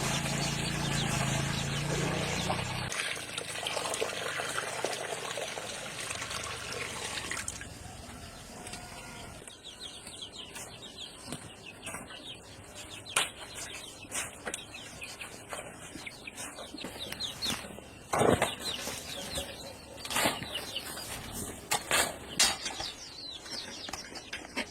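Water rushing for the first several seconds, then scattered sharp knocks and clatters, with birds chirping faintly.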